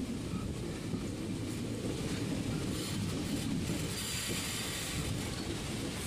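Passenger train running along the track, heard from a carriage window: a steady rumble of wheels on the rails.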